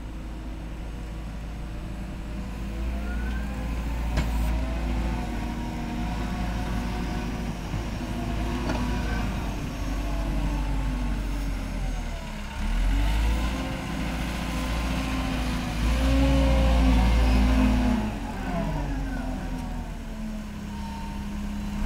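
Diesel engine of a snow-clearing vehicle working, its pitch dipping and rising as the load changes, loudest for a couple of seconds about two-thirds of the way through.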